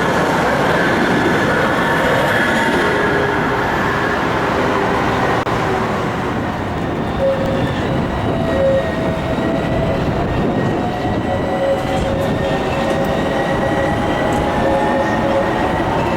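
Sirio tram running on its rails: a steady rumble with several thin whining tones that drift slowly up and down in pitch.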